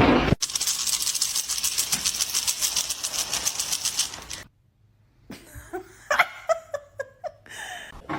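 Breathy, rhythmic laughter in quick pulses. After a sudden drop to silence, a few short high-pitched calls follow.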